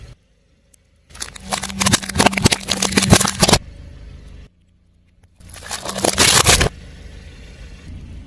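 A car tyre rolling over and crushing brittle objects, a dense run of crackling and crunching snaps over a low engine hum. It comes in two separate bursts, the first about two and a half seconds long and the second shorter, with brief dead silences around them.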